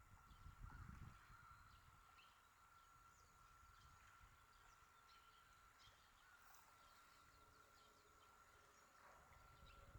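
Faint seaside ambience: a low rumble that swells briefly about a second in, with scattered faint bird chirps and a steady faint high tone.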